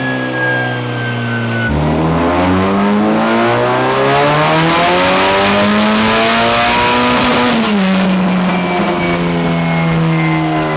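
Turbocharged Nissan SR20DET four-cylinder drift-car engine on a chassis dyno. It is held steady at first, then about two seconds in it revs steadily upward under load for some five seconds, and the revs drop back near the three-quarter mark.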